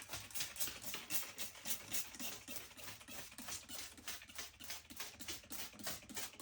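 Trigger spray bottle squirting bleach solution onto a moldy subfloor, pumped rapidly in a steady run of short hissing sprays, about three to four a second.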